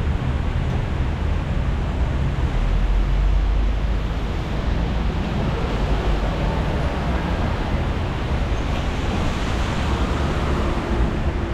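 Steady city street traffic on a rain-wet avenue: a low rumble of passing vehicles and the hiss of tyres on wet pavement, with no break or single standout event.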